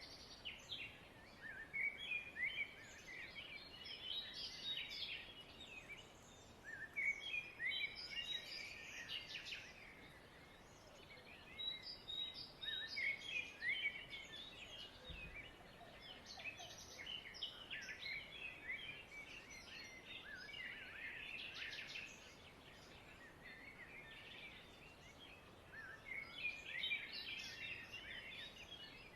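Many small birds chirping together: short, high chirps overlapping in busy bursts that come and go every few seconds.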